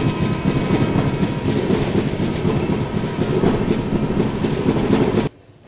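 Express train running at speed, heard from an open coach doorway: a loud, dense rumble of wheels on rails and rushing air. It cuts off suddenly about five seconds in.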